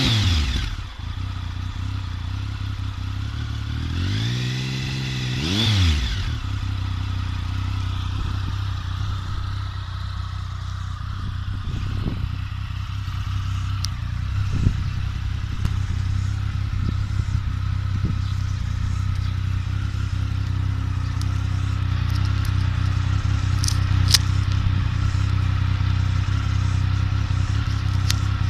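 2007 Triumph Tiger 1050's three-cylinder engine breathing through a Storm GP aftermarket exhaust. It drops back from a rev at the start, is blipped once about four seconds in with the pitch rising and falling, then idles steadily with a few faint ticks.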